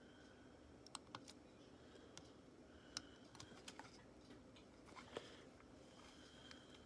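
Sparse, irregular light clicks and taps over near-silent room tone, with the most distinct ones about a second, three seconds and five seconds in.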